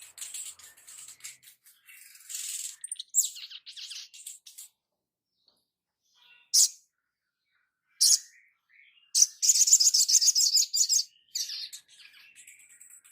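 Songbird singing in high-pitched chirps and short whistled phrases, broken by brief pauses, with a loud rapid trill about two-thirds of the way in.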